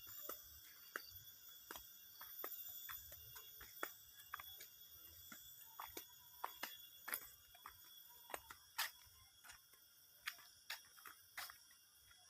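Near silence, broken by faint, irregular short clicks and ticks, with a faint steady high-pitched hum underneath.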